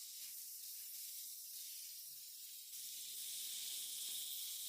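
Faint, steady sizzling of mushrooms and vegetables cooking on a hot grill, a high hiss that gets a little louder about three seconds in.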